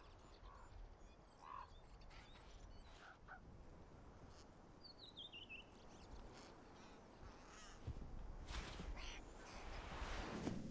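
Faint harsh bird calls: several short calls, then a quick falling chatter about halfway through, followed by rustling bursts in the last few seconds.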